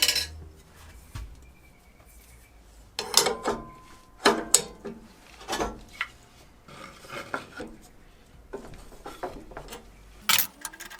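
Steel saw blades and arbor hardware being handled while flat-bottom blades are fitted to a table saw: short bursts of metal clinking and scraping, in several clusters a second or so apart.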